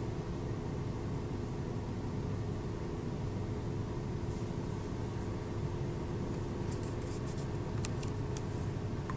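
Car engine running with a steady low rumble and hum, heard from inside the cabin, with a few faint clicks about seven to eight seconds in.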